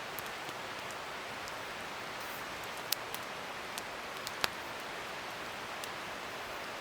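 Wood fire burning with a steady hiss and scattered crackles, with two sharper pops about three and four and a half seconds in.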